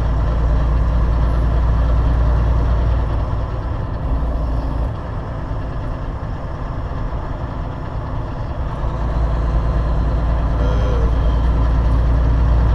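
Semi-truck's diesel engine running, heard from inside the cab as a low drone. It eases off for a few seconds in the middle, then builds again.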